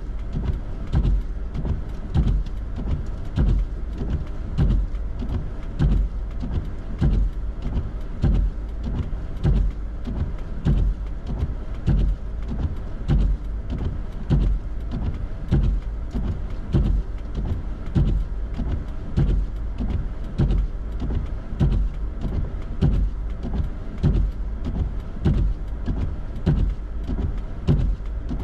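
Inside a running vehicle: a steady low rumble with a regular thump repeating a little faster than once a second.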